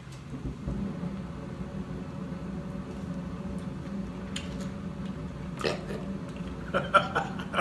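Chewing and mouth sounds of a man eating fried fish, with a few sharper smacks near the end, over a steady low hum.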